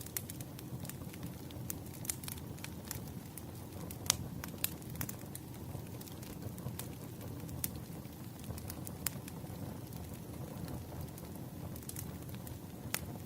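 Firewood burning: a low, steady rumble of the flames with irregular sharp crackles and pops from the wood, the loudest pop about four seconds in and another near the end.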